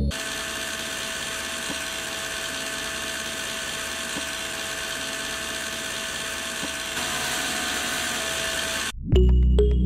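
Small DC motor running a homemade miniature chaff cutter through rubber-band belts, a steady high whine that gets slightly louder about seven seconds in. It cuts off abruptly near the end, and background music comes in.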